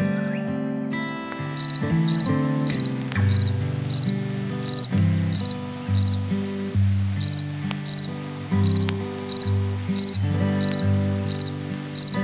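A short high chirp, each made of a few quick pulses, repeated about twice a second with a brief pause midway, over background music.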